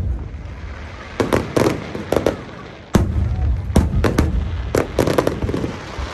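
Fireworks going off: about a dozen sharp bangs at uneven intervals, the loudest about three seconds in, over a steady low rumble.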